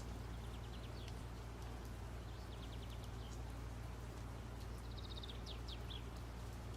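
Small birds chirping in three short runs of quick, high notes over a steady low hum.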